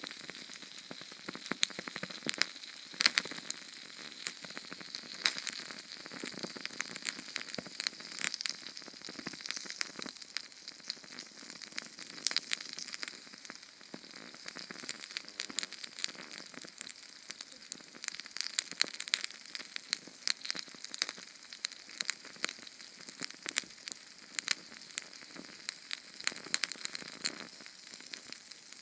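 Small Sterno canned-fuel flame burning: a steady high sizzle with many sharp, irregular crackles and pops.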